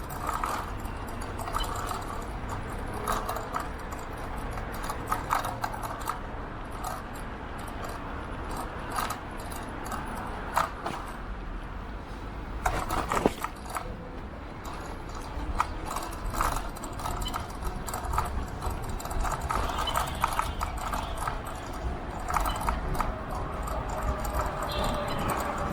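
Riding an electric scooter on the road: a steady low rumble of wind on the microphone with irregular rattling and clicking throughout.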